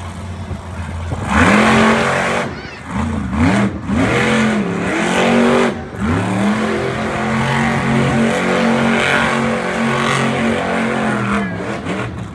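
Monster truck engine revving hard. It idles low, climbs sharply about a second in, blips up and down a few times, then holds high revs for several seconds before dropping off near the end.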